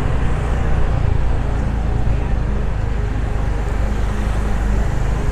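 Steady rumble of a motorbike ride through town traffic: engine running and road noise.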